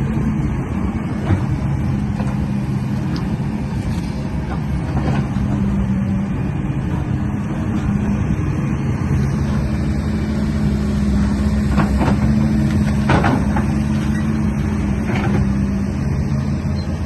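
A model construction truck's motor running steadily in a low, even hum, with a few short knocks and clacks, the loudest about thirteen seconds in.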